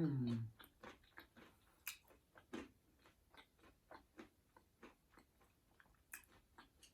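A person chewing a gyoza dumpling close to the microphone: irregular wet mouth clicks and smacks. It opens with a short, falling hum of a voice, the loudest sound.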